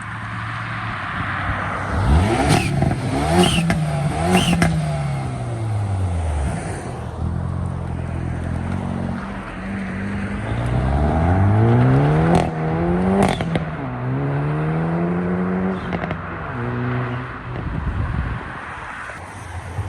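A car engine revved hard twice, its pitch climbing and falling back each time, with sharp pops near the peaks, then a few quick blips of the throttle near the end.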